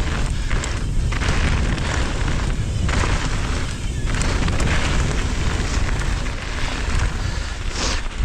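Wind buffeting an action camera's microphone with a loud, ragged low rumble, over the noise of a mountain bike rolling along a dirt trail with scattered clicks and rattles.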